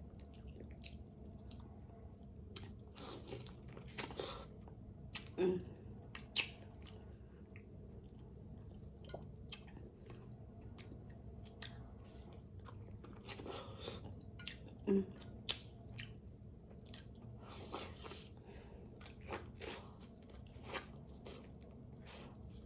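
Close-up eating sounds of a seafood boil: irregular chewing, biting and crunching, with sharp cracks and clicks scattered throughout.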